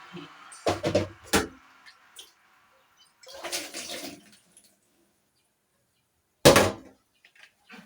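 Water splashing in a few separate short bursts, with a loud sudden splash near the end.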